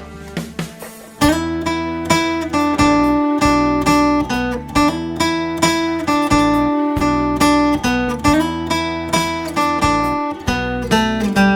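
Acoustic guitar playing an instrumental melody: a few soft plucked notes, then from about a second in louder picked notes that ring over sustained bass notes, in a regular rhythm.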